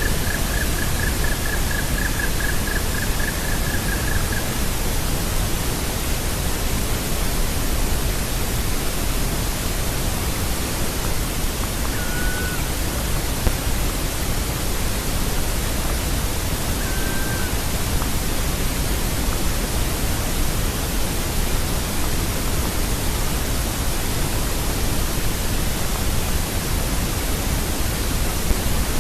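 Steady loud hiss throughout. Over it a woodpecker gives a rapid run of repeated calls that stops about four seconds in, then two single short calls, one about twelve seconds in and one about seventeen.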